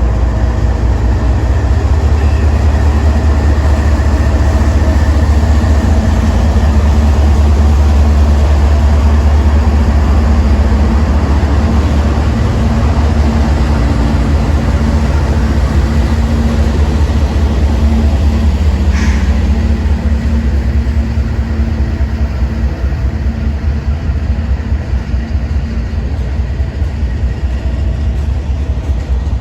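Diesel locomotives of a CSX freight train, including a trailing EMD GP28, passing close with a loud, steady low engine rumble. A brief sharp sound about two-thirds of the way in, after which the quieter, rhythmic rolling of the freight cars takes over.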